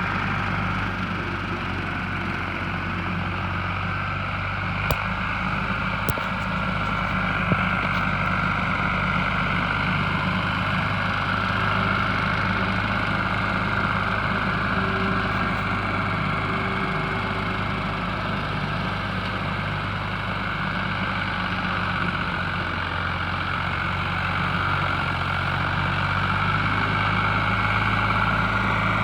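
Ford 4000 tractor's three-cylinder diesel engine running steadily at an even pitch, driving a seven-foot brush hog. A few light clicks come through about a quarter of the way in.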